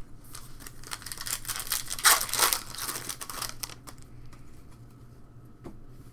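Crinkling and rustling of a foil trading-card pack wrapper as it is handled and crumpled, loudest about two seconds in, then fading to a few light clicks of cards being handled.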